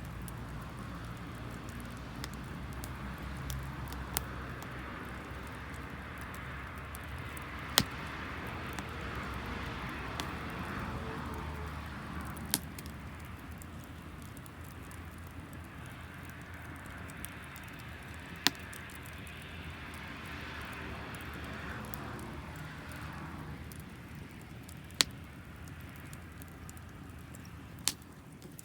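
Wood fire of damp firewood burning with a steady hiss, broken by about six sharp pops.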